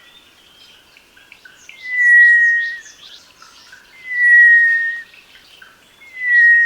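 Sri Lanka thrush giving long, thin, slightly falling whistles, three in all, about two seconds apart, with faint chirps of other birds behind.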